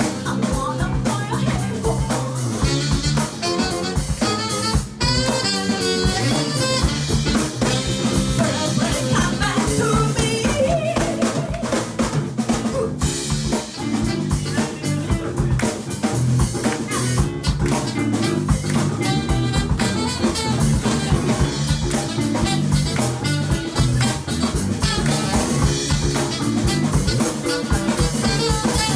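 Live band music: a drum kit with snare rimshots and bass drum keeps a steady beat under electric guitar and other instruments.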